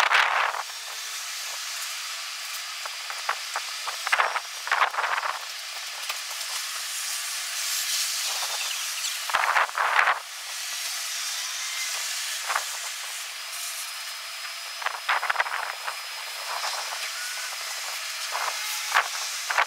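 Strong wind hissing steadily, with louder gusts rushing in every few seconds.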